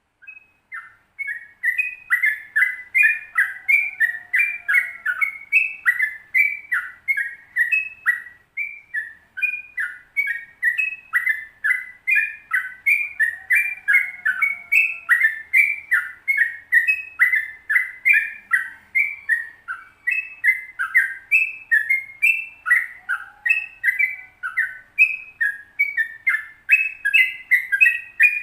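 Sooty-headed bulbul (trucukan) singing a long, unbroken 'ropel' song of quick, chirpy notes, about two or three a second, starting about half a second in.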